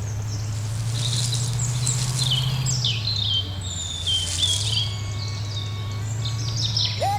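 Birds chirping, many short calls over a steady low hum, with a rising whistle near the end.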